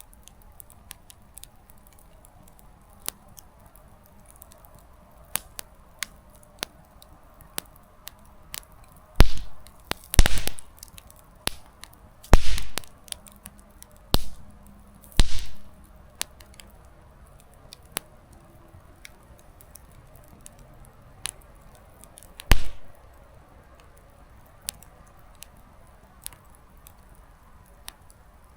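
Small wood campfire crackling: scattered sharp ticks and pops of burning firewood over a faint steady hiss, with a run of louder pops midway and another loud pop later on.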